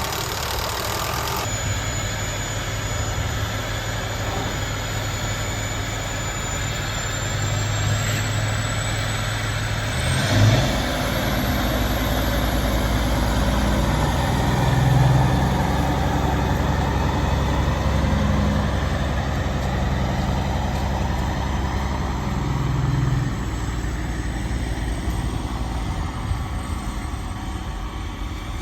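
Diesel engine of a farm tractor or semi truck running steadily, shifting in pitch and load about ten seconds in, with brief swells in level later on.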